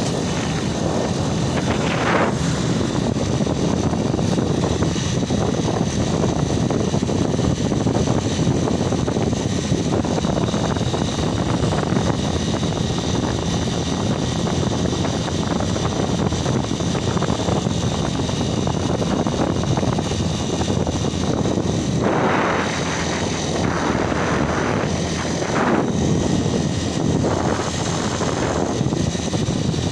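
A steady engine drone with a constant rush of noise, and a few brief louder gusts of hiss near the end.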